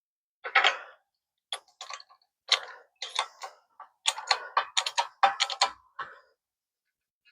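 Irregular sharp metal clicks and knocks from tools at work pressing out a driveshaft universal joint, coming in a quick run of them about four to six seconds in.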